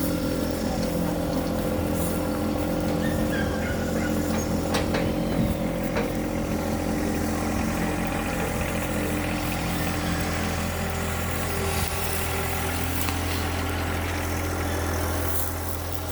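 Tractor engine running steadily, with a couple of sharp clicks about five and six seconds in; it gets a little quieter near the end.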